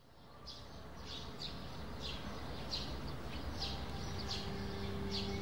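Birds chirping: one short chirp repeated about once or twice a second over low background noise, fading in from silence. Low held musical notes come in about two-thirds of the way through.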